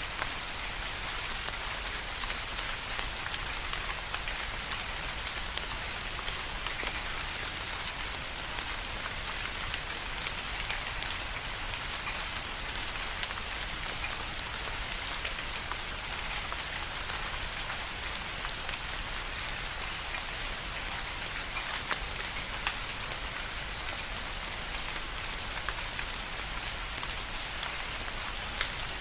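Steady rain falling, a constant hiss with many small, distinct drops pattering and ticking on a surface.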